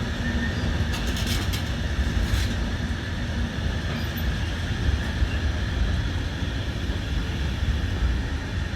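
Train running steadily at the station with a low rumble, and a few brief metallic clicks about a second in.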